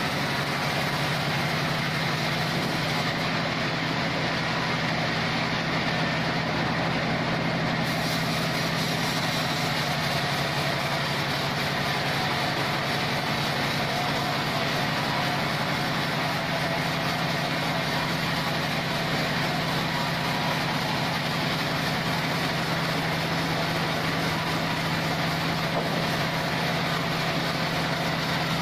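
Band sawmill machinery running steadily: a constant engine-like drone with a strong low hum and no break or change.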